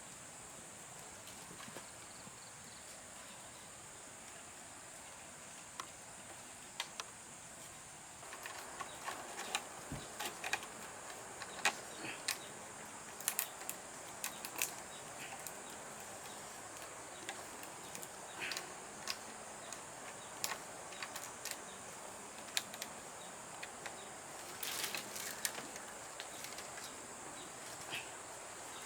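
Irregular light knocks and clicks from handling bamboo and wood, starting about eight seconds in, over a steady high-pitched insect drone.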